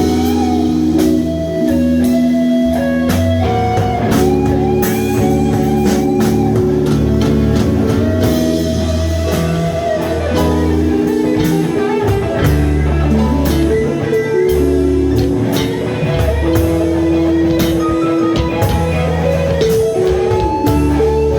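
Live band playing an instrumental passage: guitar lines over bass guitar and drum kit.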